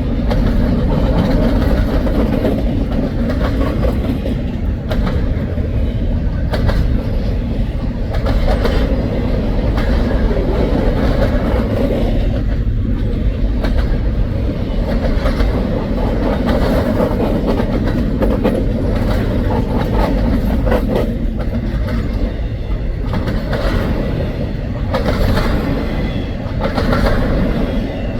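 A double-stack intermodal freight train rolling steadily past, with a continuous low rolling noise and the repeated clicking of wheels over the rails.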